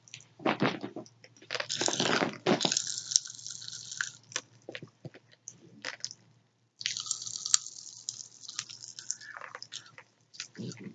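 Pop Rocks candy crackling and popping in a mouth: a fizzing hiss full of sharp little pops, in two spells with a short lull between.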